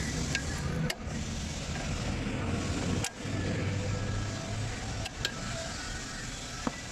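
Motor vehicle noise: a steady low rumble with a few sharp clicks and brief breaks.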